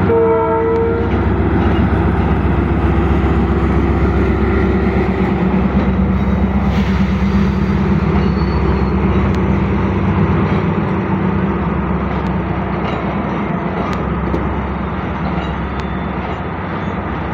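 Arriving passenger train: a short horn blast at the start, then coaches rolling slowly past with a steady rumble and hum of wheels on rails, easing a little near the end.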